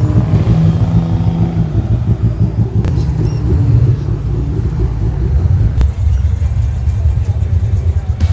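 A car engine running close by with a loud, uneven low rumble.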